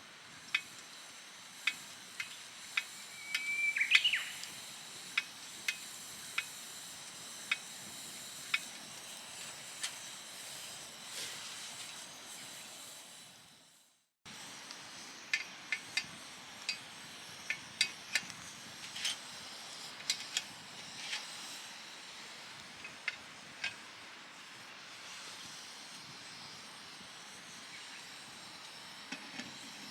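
Wood fire crackling, with irregular sharp pops over a steady soft hiss. A brief high whistle rises about four seconds in. The sound fades out and cuts back in about halfway through.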